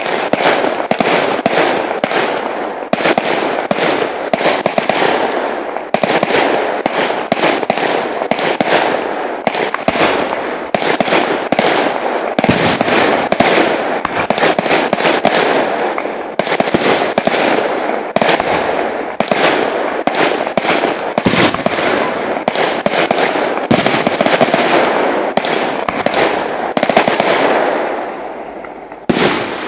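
Aerial fireworks display: a dense, continuous barrage of bangs and crackling from bursting shells. It fades near the end, with one last bang just before it closes.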